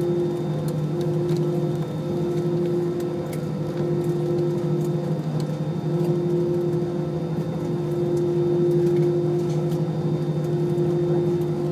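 Rolls-Royce jet engines of an Airbus airliner running steadily, heard from inside the passenger cabin: a constant hum carrying a few clear droning tones.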